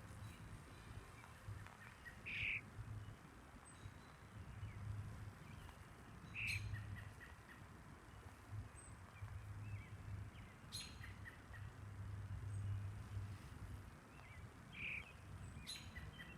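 Three short bird chirps spaced several seconds apart, with a few sharp clicks and an uneven low rumble underneath.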